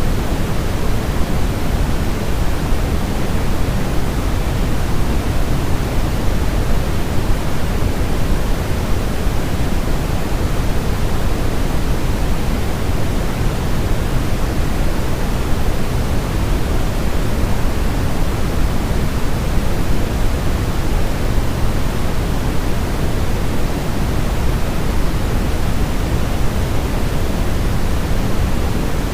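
Steady, unchanging white noise for baby sleep: an even hiss with no tones or breaks, weighted toward the low end so it sounds deep and rushing rather than bright.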